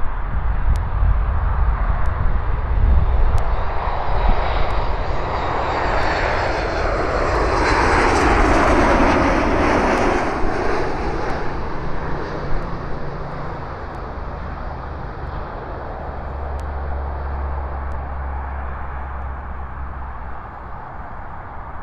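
TUI Boeing 737 MAX 8 airliner on its landing approach, its CFM LEAP-1B jet engines swelling to a peak about nine seconds in as it passes and then slowly fading away.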